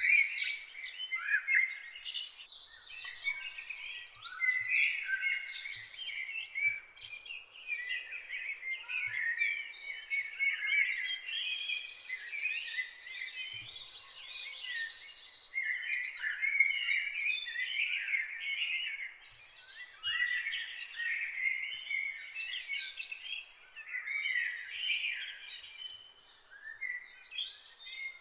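A dawn chorus of many songbirds singing at once, with dense, overlapping chirps, trills and whistled phrases that go on without a break.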